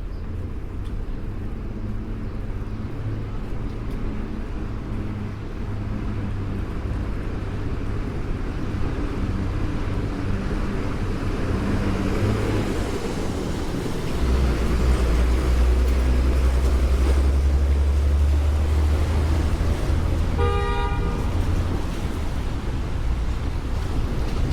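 City street traffic rumbling steadily, with a heavy vehicle running louder and lower for several seconds past the middle. Near the end a vehicle horn gives one short toot.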